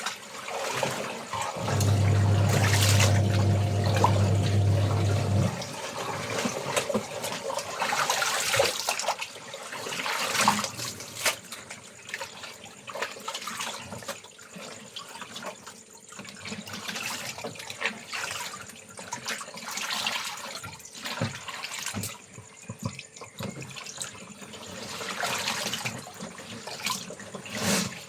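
Laundry being washed in water: irregular splashing and trickling, with a steady low hum from about two seconds in that stops after a few seconds. Insects keep up a faint, steady high drone behind it.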